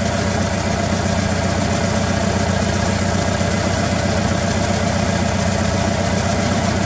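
Volkswagen Beetle's air-cooled flat-four engine idling steadily as it warms up.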